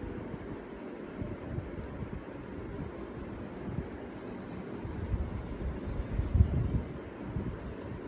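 Colour pencil scratching back and forth on paper, with a low rumble underneath that grows louder with a few soft bumps about five to seven seconds in.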